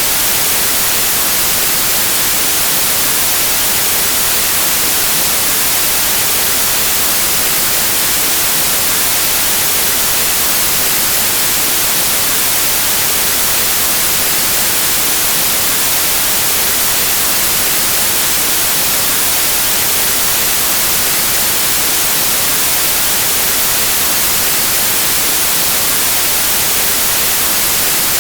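Steady white noise: an even, unchanging static hiss that is strongest in the high frequencies, with no tones or breaks.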